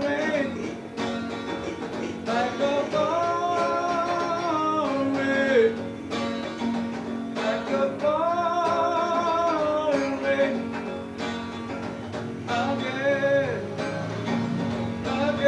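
A man singing a slow song to guitar accompaniment, holding long notes.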